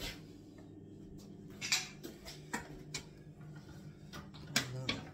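Scattered knocks and light clatter of debris and rubbish being handled by hand, with a pair of sharper knocks about two seconds in and another pair near the end.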